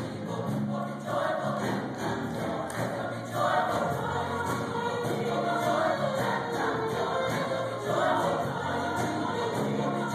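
A choir singing a gospel song in long, held phrases.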